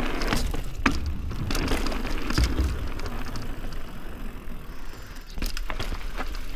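Polygon Colossus N7 mountain bike rolling down a dirt trail: a steady rumble of tyres and rattle, broken by several sharp clacks from impacts and chain slap over rough ground, one about a second in and two near five and a half seconds.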